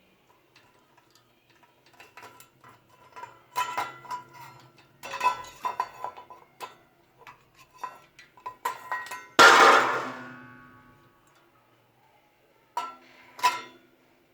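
Light clicks and taps, then clusters of metallic clinks with short ringing tones. About nine and a half seconds in comes one loud clang that rings and fades over a second or so, and two sharper clinks follow near the end.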